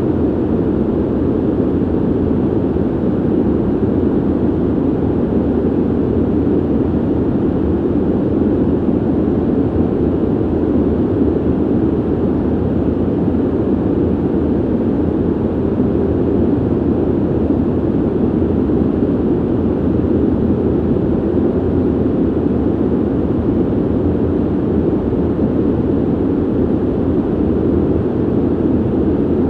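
Steady ventilation noise: an even, low rush of air that does not change.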